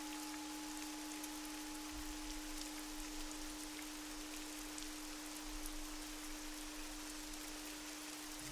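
Soft rain ambience, an even pattering hiss, over a steady low drone tone, with a fainter higher tone near 852 Hz that fades out in the first few seconds.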